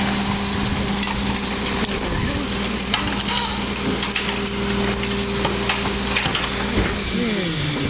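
Recycling truck running steadily, with clanks and rattles scattered through. Near the end a whine falls sharply in pitch.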